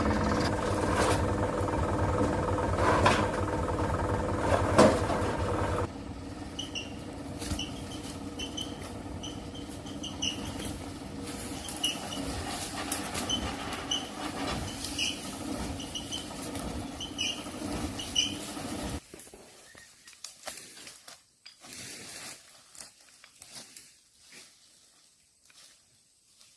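A truck's engine running loudly and steadily, cutting off suddenly about six seconds in. A fainter engine hum follows with repeated short, high chirps until it too stops about two-thirds of the way through. Then only faint scattered clicks and knocks remain.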